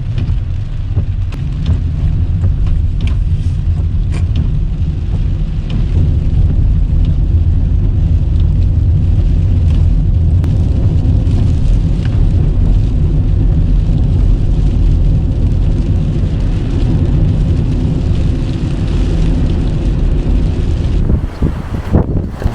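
Steady low rumble of a car driving, heard from inside the cabin, with a few faint clicks. The rumble breaks up near the end.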